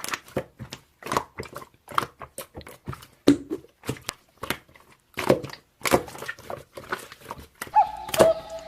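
Slime being squeezed and poked by hand, giving irregular sticky clicks and pops several times a second.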